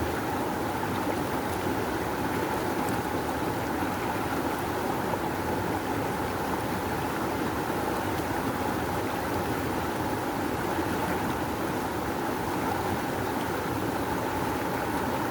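Rushing river water flowing strongly: a steady, unbroken roar of current.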